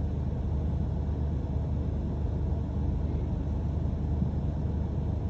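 Steady low rumble of a London bus in motion, engine and road noise heard from inside the passenger deck.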